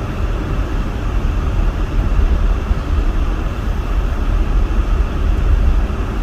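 Steady road and engine noise heard from inside a van's cabin while driving, a constant low rumble with no changes.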